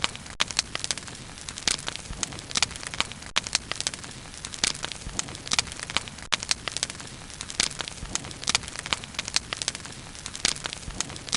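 Bonfire burning: irregular sharp crackles and pops from the burning wood, several a second, over a steady hiss of the flames.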